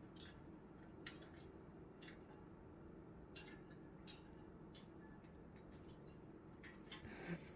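Near silence with a dozen or so faint clicks and taps scattered through it, from pet budgies moving about on their cage.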